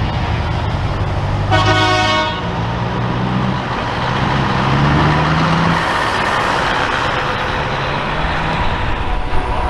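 Trucks driving past with engines running, and one truck horn blast about a second and a half in, lasting under a second. Around the middle a truck's engine note rises in pitch as it pulls away, followed by a rushing noise.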